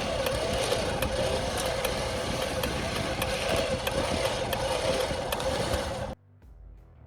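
Engine running steadily at a constant speed, with light regular clicks over it; it cuts off abruptly about six seconds in, leaving a faint low hum.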